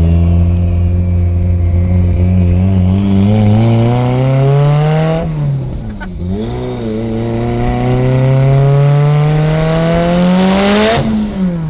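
Mitsubishi Lancer Evolution's turbocharged four-cylinder, heard from inside the cabin, accelerating with its pitch rising. It shifts into second about five seconds in, climbs again, then drops as the throttle closes near the end with a brief rush of noise.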